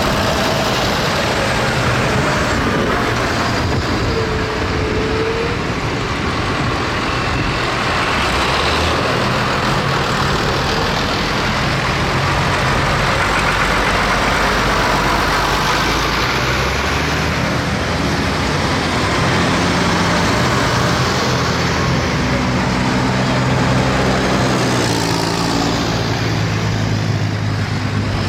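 Tractor engines running in a steady, continuous din, with a low engine note coming through more clearly in the second half.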